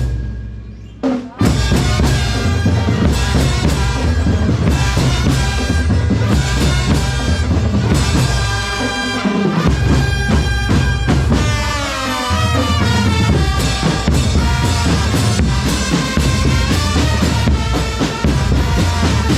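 Marching drum band playing: bass drums and snare drums beating under a pitched melody line. The music drops away briefly about a second in, then the full band comes back in.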